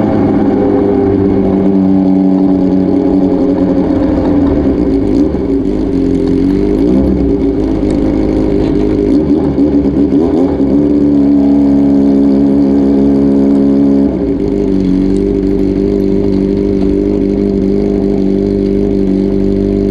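Honda CBX400F's air-cooled inline-four running loud through an unbaffled RPM 4-2-1 straight-pipe exhaust. The engine note wavers up and down in the middle, then holds steady, dropping a little about fourteen seconds in.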